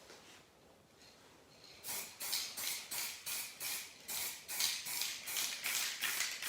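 Aerosol spray-paint can hissing in a rapid series of short bursts, about three a second, starting about two seconds in: quick light passes to lay the paint on in thin layers.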